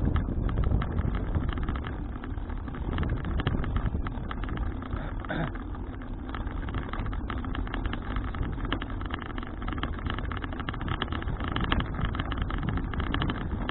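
Wind buffeting the microphone of a bicycle-mounted action camera while riding, a steady low rumble with many small crackles and rattles.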